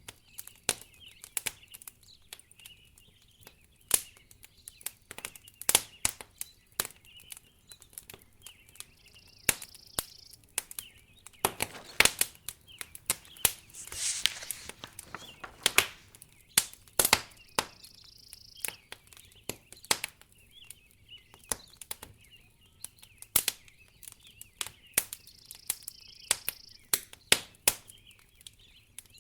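Wood fire in a fireplace crackling, with irregular sharp pops and snaps, some much louder than others. A brief rushing swell comes about halfway through.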